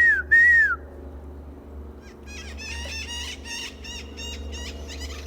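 Cayman parrots (Cuban amazons) calling: two loud, arching squawks in quick succession right at the start, then from about two seconds in a quicker run of shorter, higher calls, about three a second.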